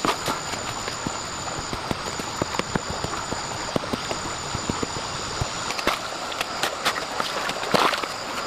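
Rain falling, a steady hiss with many small drop impacts clicking through it. A thin high tone sounds in three stretches in the first six seconds or so.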